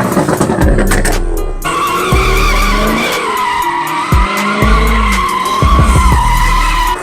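A car drifting: tyres screeching in one long, wavering squeal from about two seconds in, with the engine revving up and down. Deep bass music plays underneath.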